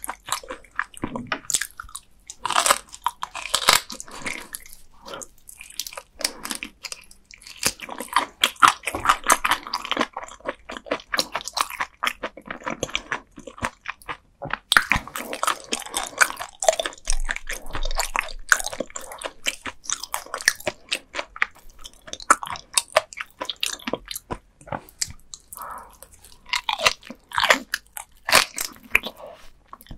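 Close-miked chewing and biting of raw gizzard shad sashimi, eaten bones and all, with continuous irregular crunching and crackling of the soft fish bones.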